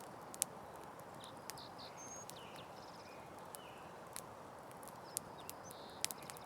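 Campfire crackling: scattered sharp pops and snaps over a steady soft hiss, with faint high chirps in the background.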